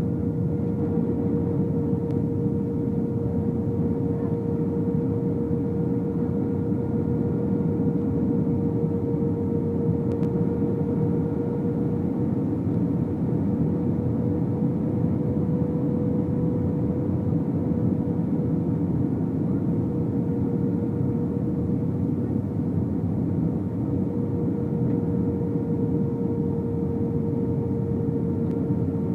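Cabin noise of an Airbus A319 in flight: a steady rush of engines and airflow with a constant droning hum over it.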